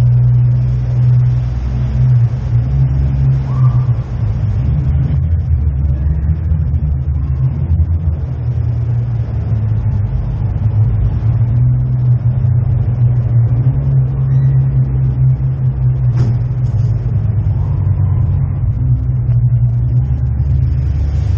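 Jeep Wrangler JK's engine running steadily at a slow crawl, a continuous low drone.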